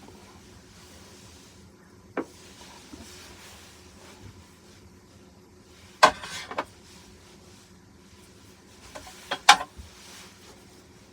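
Sharp knocks and clatters of things being handled and set down: a single click about two seconds in, a louder cluster around six seconds, and another near nine and a half seconds, over a faint steady hum.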